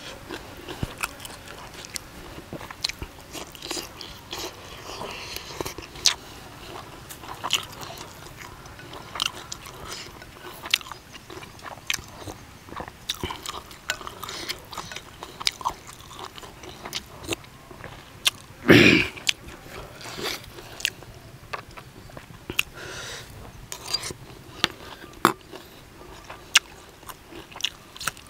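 Close-up chewing and crunching of crispy-skin duck larb and raw vegetables: many small, crisp crunches in an irregular rhythm, with one louder short sound about two-thirds of the way through.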